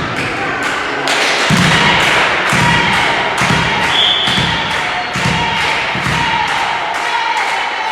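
Steady rhythmic thumps, about two or three a second, with music over them.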